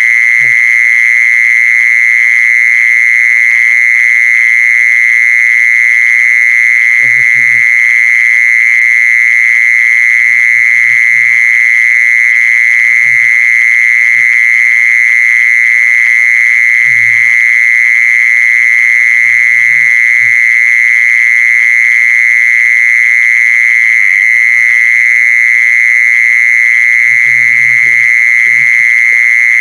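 An insect (the 'jee-sorn', แมลงจีซอน) singing a continuous high trill at one steady pitch, unbroken throughout, with a faint low hum and brief faint low murmurs every few seconds underneath.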